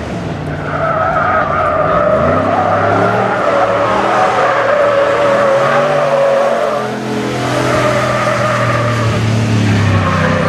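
Tires squealing in a long, steady screech as a vehicle drifts, over its engine revving up and down. The screech eases briefly about two-thirds of the way through, then picks up again.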